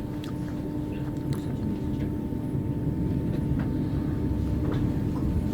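Electric narrow-gauge train running: a steady low rumble under a steady hum, with a few light clicks scattered through.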